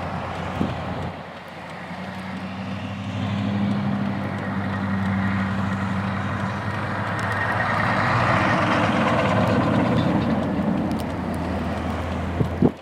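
A motor vehicle's engine running steadily, with a rush of noise that swells past the middle and fades again. Near the end come a couple of sharp clicks, then the sound cuts off abruptly.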